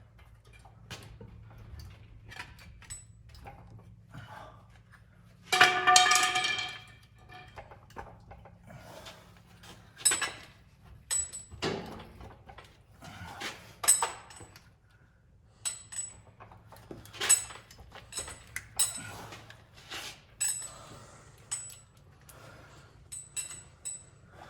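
Wrenches and metal parts clinking and knocking in irregular short clicks while fasteners are worked loose on the truck's drivetrain. About six seconds in there is one loud, high squeal lasting over a second, over a faint steady low hum.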